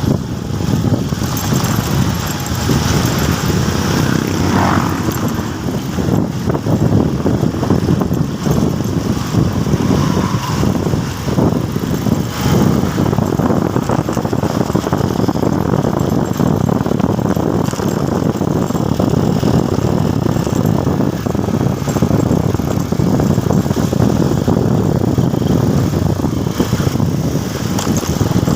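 Motorcycle ride: steady engine and road noise with a heavy, rough low rumble throughout, and a brief higher-pitched rising sound about four seconds in.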